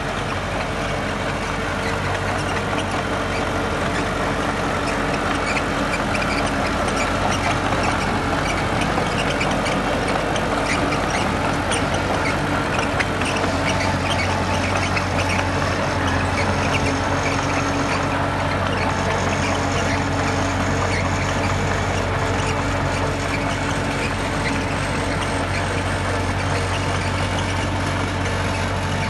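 Heavy diesel earthmoving machinery running steadily under work, a deep constant engine hum, with scattered short high squeaks and clanks over it.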